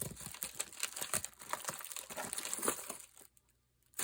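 Packets and sheets of craft embellishments rustling and crinkling as they are handled and sorted, with scattered small clicks. The handling stops about three seconds in, and a single sharp click comes near the end.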